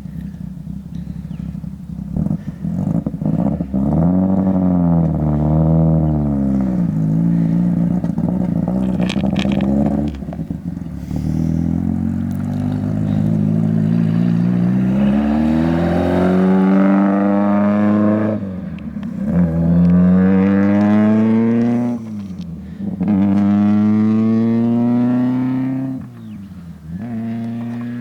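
Freshly overhauled Zastava racing car's Fiat 128-derived four-cylinder engine running hard under full throttle. The engine note climbs steadily and then drops sharply at each upshift, several times, as the car accelerates through the gears.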